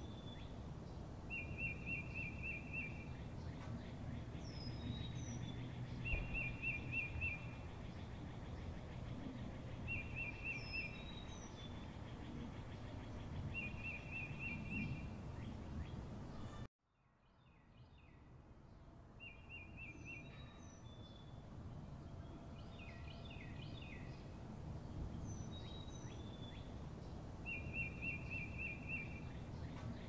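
Birds calling: a short fast trill repeated every few seconds and quick high chirps, over a steady low rumble. About seventeen seconds in the sound cuts out to silence, then fades back up with the same calls.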